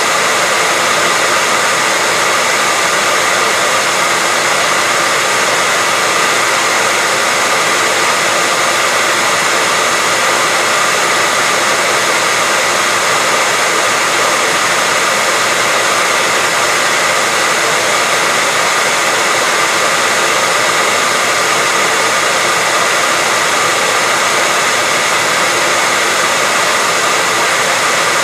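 Hair dryer running steadily, a constant airy rush with a faint whine from its motor, unchanging throughout.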